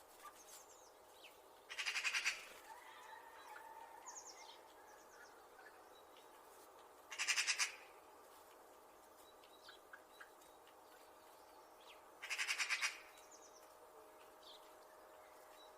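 Magpie giving three harsh, rapid rattling chatters, each under a second and about five seconds apart, with faint short chirps from other birds in between.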